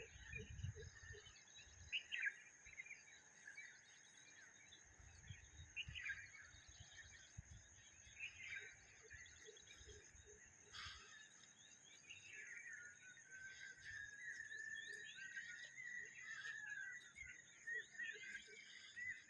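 Faint songbirds singing and chirping: scattered short calls, then a longer continuous warbling song over the second half, with a steady high hiss and low rumbles underneath.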